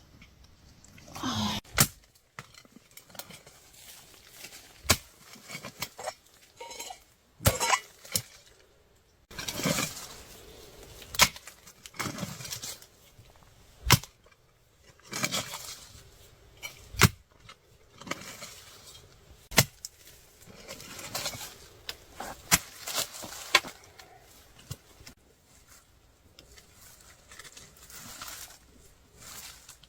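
Digging tool striking and scraping into soil and stones in irregular, sharp blows a second or two apart, with rustling and scraping of earth between strikes.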